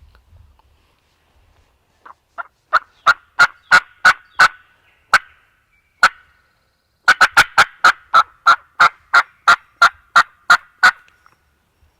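Turkey yelping: a run of loud, sharp yelps about three a second starting about two seconds in, a lone yelp, then a longer, slightly faster run of a dozen or more yelps near the end.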